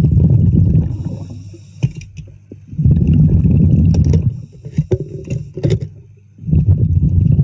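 Underwater breathing: three loud exhalations of bubbles rumbling past the microphone, about three seconds apart, with small sharp clicks and knocks between them.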